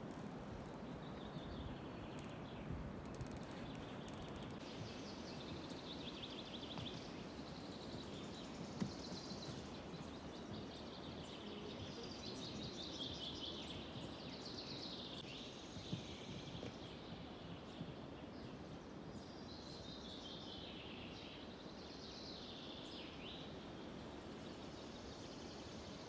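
Songbirds singing in a forest, a series of quick trilled and chirping phrases one after another, faint over a steady low background hiss.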